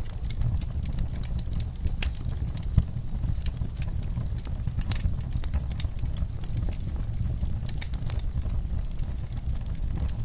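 Wood fire burning in a fireplace: a steady low rumble of flames with frequent sharp crackles and pops, one louder pop about three seconds in.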